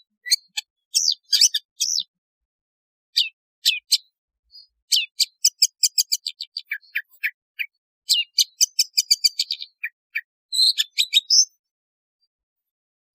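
Long-tailed shrike (cendet) calling: short, sharp, high notes, with fast runs of rapidly repeated notes about five seconds in and again about eight seconds in, stopping about two seconds before the end.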